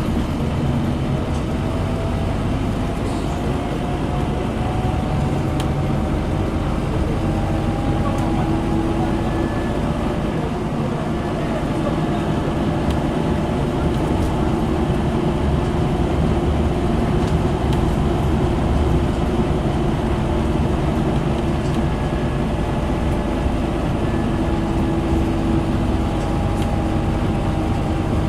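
Scania N230UD double-decker bus running under way: its diesel engine and ZF Ecomat 5-speed automatic gearbox giving a steady drone, with a whine that rises slowly in pitch twice as the bus accelerates.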